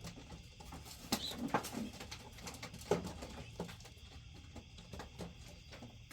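Homing pigeons cooing in short low calls, mixed with scattered sharp clicks and rustles of birds shifting and flapping.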